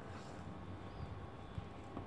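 Faint light ticks and rustles of plastic craft wire being handled and knotted, over a low steady hum.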